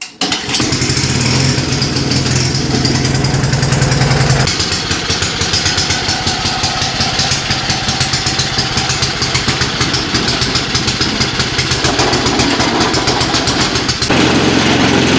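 Gas snow blower engine running steadily while clearing fresh snow. It cuts in suddenly, and its sound shifts abruptly about four seconds in and again near the end.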